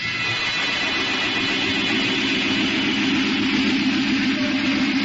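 Radio-drama sound effect of a train running: a steady rushing noise with a low hum that wavers a few times a second.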